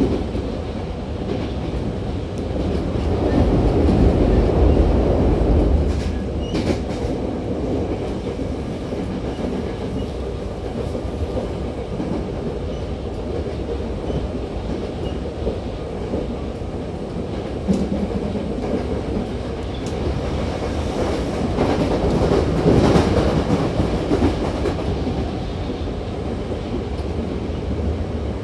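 Hankyu 7000 series train car under way, heard from inside: a steady rolling rumble with the wheels clicking over rail joints. It swells louder twice, for a few seconds early on and again past the middle, with a few short clicks and rattles.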